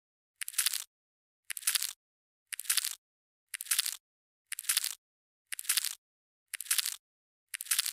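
Katydid (bush cricket) stridulating: eight short, high-pitched buzzy chirps, about one a second.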